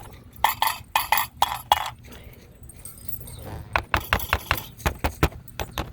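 A small ball being knocked and rattled against hard things: a run of sharp clicks and clinks, about four a second at first, then a quieter gap, then a quicker flurry of clicks.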